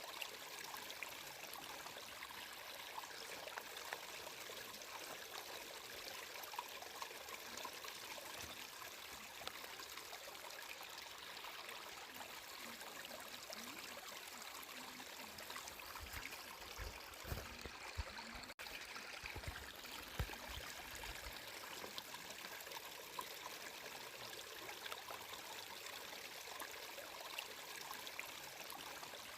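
Water flowing steadily, with a continuous trickling, babbling rush. A few low thumps come through around the middle, with a very brief dropout among them.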